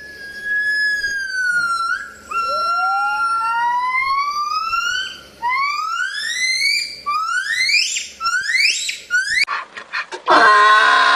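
An animal's whistle-like gliding calls: one long, slowly falling note, then a string of rising calls that get shorter and quicker. A different, fuller and lower call starts about a second before the end.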